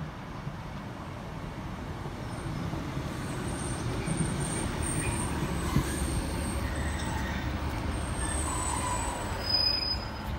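ScotRail diesel multiple unit passing directly beneath a footbridge: its engine and wheels rumble, growing steadily louder as it comes under. There is a brief louder burst near the end.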